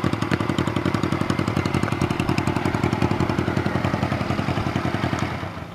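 Honda CB125TT twin-cylinder engine idling through open, cut-down header pipes, a loud, rapid, even exhaust beat. It dies away about five seconds in, as the engine is shut off.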